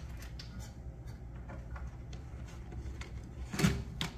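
A parrot's beak tapping and clicking on a hard object in light, irregular ticks, with a louder knock about three and a half seconds in.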